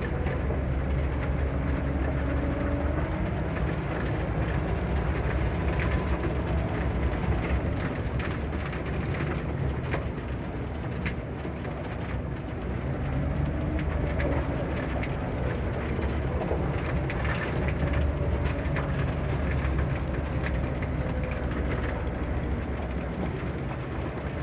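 Scania K94 bus driving, its Scania DC9 five-cylinder diesel engine and ZF Ecomat automatic gearbox giving a steady low rumble with a whine that rises and falls with speed, over scattered clicks and rattles.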